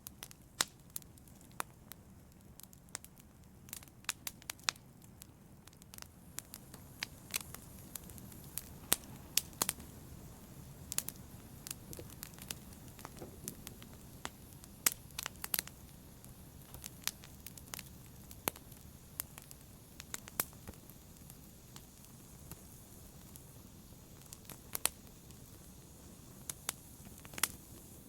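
Wood fire in a fireplace crackling: irregular sharp pops and snaps, a few louder than the rest, over a steady low rush of the burning fire.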